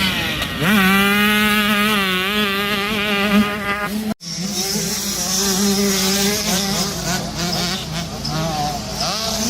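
Motocross dirt bikes' engines running on the track, a high buzzing note that wavers up and down with the throttle. It cuts out sharply about four seconds in, then several bikes are heard buzzing together.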